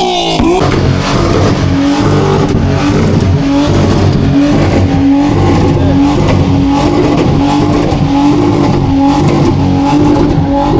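A car engine revving hard and loud.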